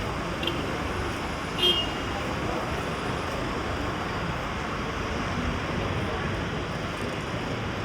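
Steady city street ambience: a constant hiss of traffic with indistinct voices, and a brief high squeak about a second and a half in.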